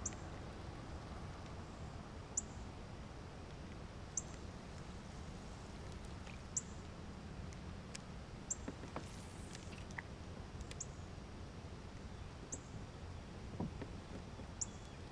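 A bird's short, high chirp, repeated about every two seconds over faint outdoor background, with a few faint clicks in between.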